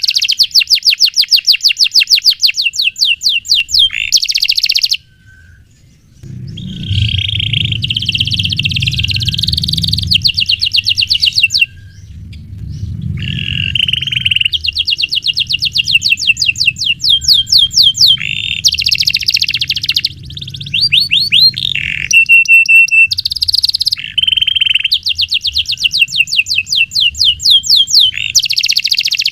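Domestic canary singing long, rapid trills of repeated high notes in runs broken by short pauses, with one brief held whistle about three quarters of the way through.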